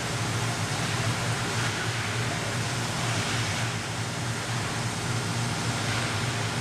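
Steady ice-rink arena ambience: a continuous hiss with a constant low hum underneath, without distinct knocks or impacts.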